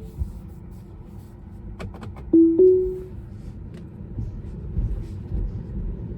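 Tesla cabin chime: two short clear tones about two and a half seconds in, the second a little higher, over the low rumble of the car's cabin. A few light clicks come just before the chime.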